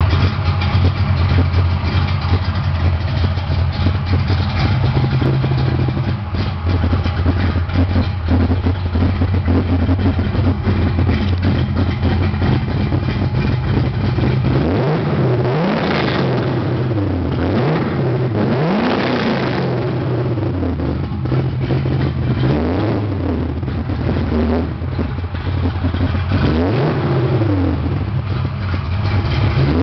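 1970 Ford Mustang Boss 302's V8 idling steadily, then revved in a series of short blips from about halfway through, the pitch climbing and falling several times.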